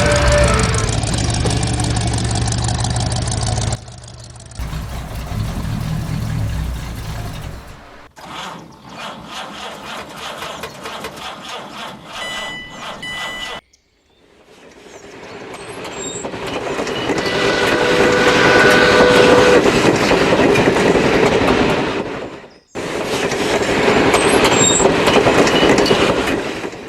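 Train sound effects: the rumble and clatter of a rolling train, in several segments broken off by abrupt cuts. One segment builds up to its loudest past the middle and then stops suddenly.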